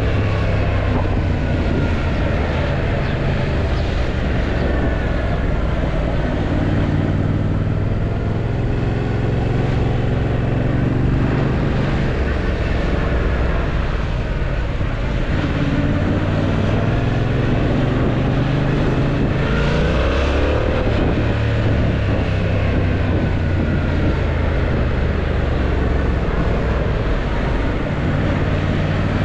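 Yamaha MT-07's 689 cc parallel-twin engine running under way, its pitch rising and falling as the bike accelerates and eases off, a couple of times in the middle stretch, over steady road noise.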